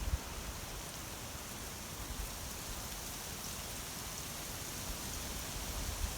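Quaking aspen leaves rustling steadily in the wind, a dense, rain-like hiss, with low gusts of wind buffeting the microphone near the start and again near the end.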